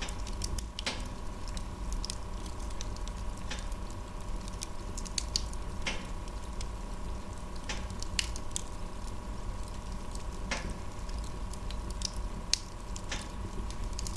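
Wood fire crackling: irregular sharp pops and snaps over a steady low rumble, with one louder pop about twelve seconds in.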